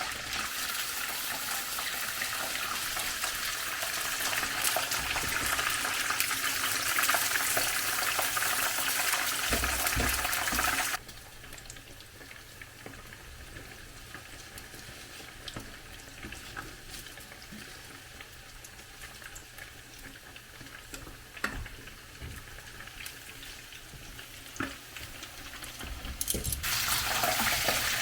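Chicken legs deep frying in hot oil with a steady sizzle. The sizzle drops sharply to a much quieter level about eleven seconds in, with a few light clicks of a utensil, and comes back loud near the end.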